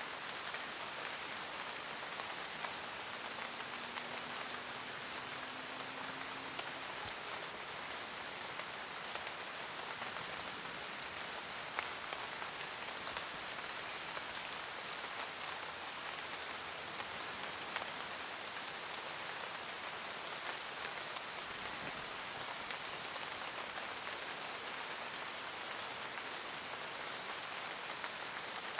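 Steady forest rain: a dense, even hiss of rainfall with scattered sharper drop ticks.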